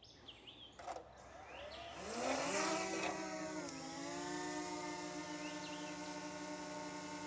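Small quadcopter drone spinning up about two seconds in: a rising motor-and-propeller whine that settles into a steady, even-pitched hum as it hovers. Faint bird chirps are heard now and then.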